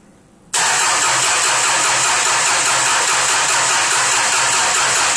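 Citroën BX 1.9-litre diesel engine being cranked on its starter motor on its first start after a rebuild: a sudden loud, steady churning with a high whine and an even pulse, beginning about half a second in. The engine is not catching.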